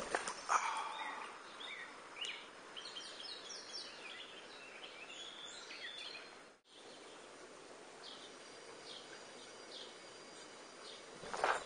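Small songbirds chirping repeatedly over faint steady outdoor ambience, with a short louder noise near the start and another near the end.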